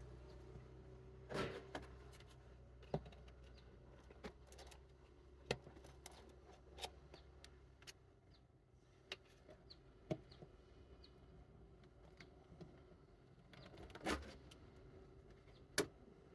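Scattered light metallic clicks and knocks of hand tools and engine parts being handled, about a dozen spread out, with two louder knocks near the end. A low steady hum dies away about halfway through.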